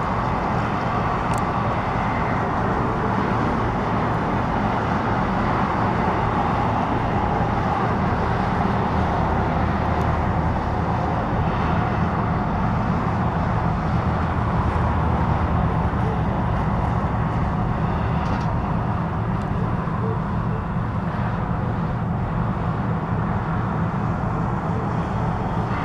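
Diesel locomotive engine running steadily with an even low drone.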